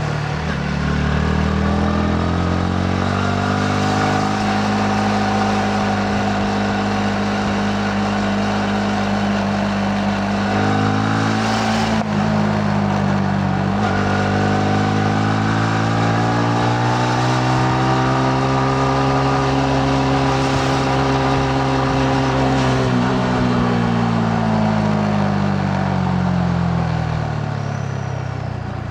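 Yamaha MT-15 motorcycle's single-cylinder four-stroke engine under way, heard from the rider's seat with road and wind noise. The engine note rises, holds steady, breaks briefly about eleven seconds in, climbs again, and then falls away gradually as the bike eases off near the end.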